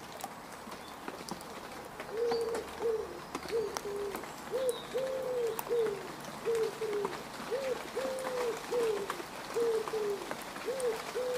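Rain falling on mud, a steady patter of drops. From about two seconds in, a bird gives a long run of low, cooing calls, about two a second, each note rising and then falling, louder than the rain.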